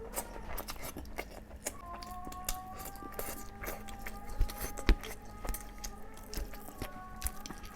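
A person eating close to the microphone: wet chewing and mouth smacks with quick clicks, two louder smacks about halfway through. Faint held tones, likely soft background music, run underneath.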